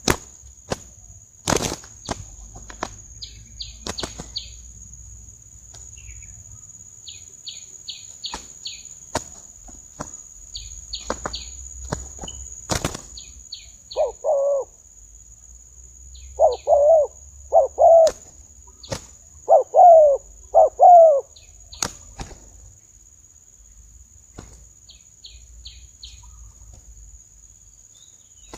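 Spotted doves fighting: scattered wing flaps and sharp knocks, with low cooing calls midway, one call and then two pairs, the loudest sounds here. A steady high insect buzz and short runs of high chirps go on underneath.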